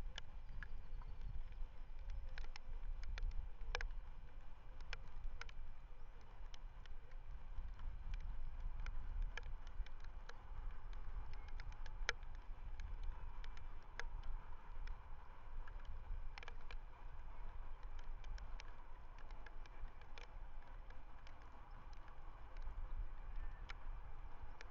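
Outdoor webcam microphone: a steady low rumble of wind on the mic, with scattered sharp faint clicks throughout.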